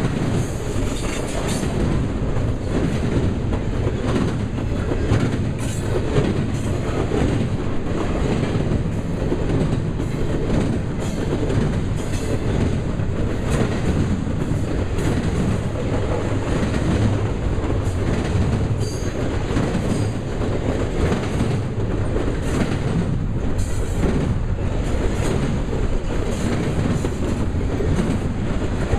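Double-stack container well cars of a freight train rolling past close by: a steady low rumble of steel wheels on rail with frequent clicks and clanks from the wheels and couplings.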